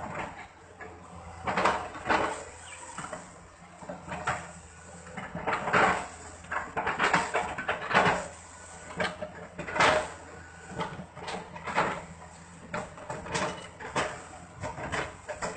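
Excavator engine running steadily while the machine chips felled trunks for replanting, with irregular crunching and cracking every second or two.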